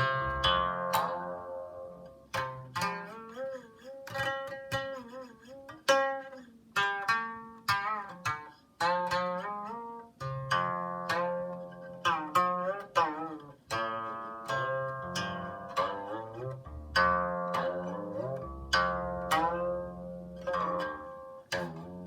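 Solo Chinese zither music: plucked notes ringing and fading, many bent with sliding, wavering pitch, over lower ringing bass notes.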